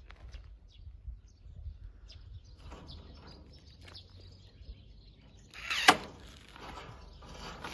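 Faint handling and scraping noises over a low rumble, with one sharp loud knock about six seconds in.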